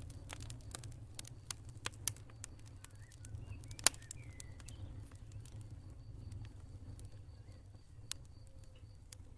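Campfire crackling with irregular sharp pops, the loudest about four seconds in, over a low steady rumble. Faint high cricket chirping joins about halfway through.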